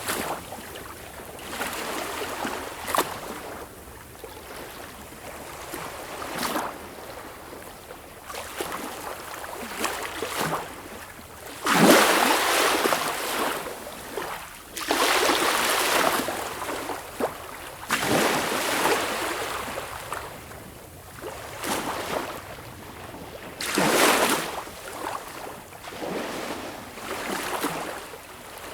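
Sea waves breaking and washing in, in repeated surges a few seconds apart that swell and fall away; the loudest comes about twelve seconds in.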